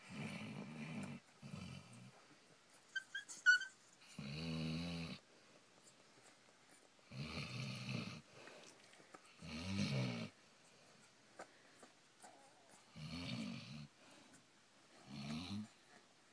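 Basset hound snoring: seven low snores, each about a second long, coming every two to three seconds. A few brief high squeaks are heard about three seconds in.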